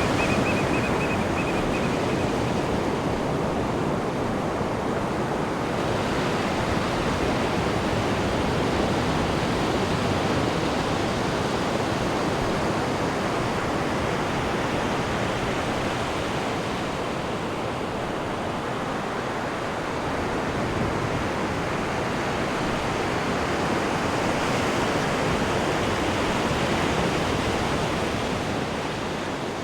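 Sea surf washing in: a continuous rushing wash of waves that slowly swells and eases. A thin, high, steady whistling tone sounds over the first couple of seconds.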